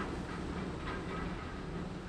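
A heritage train running along the track: a steady low rumble with a couple of brief clicks, slowly growing fainter.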